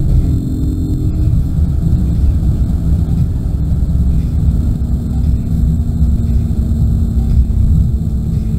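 BMW E36's M52 straight-six heard from inside the car as the throttle is lifted after a full-throttle pull: the engine note drops in the first second, then the car runs on at light throttle with a steady low drone and heavy road rumble.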